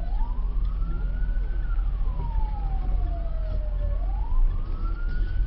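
A siren wailing slowly up and down, each cycle rising for about a second and a half and falling for about two and a half, over a steady low rumble.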